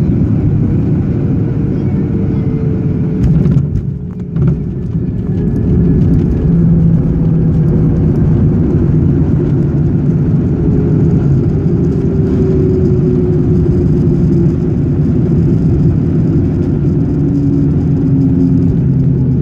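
Inside the cabin of a Boeing 737-800: steady low engine and airframe rumble, with engine tones drifting slowly lower. The level drops briefly about four seconds in.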